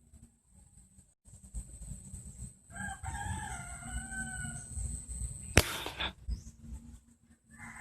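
A rooster crows once, about three seconds in, and a single sharp crack sounds about a second after the crow ends. Low rumbling noise runs underneath.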